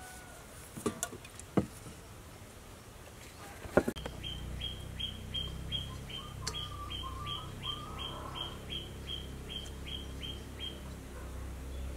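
A bird repeating one short high note over and over, about three times a second, for some six seconds from about four seconds in. Before the calls, a few sharp knocks.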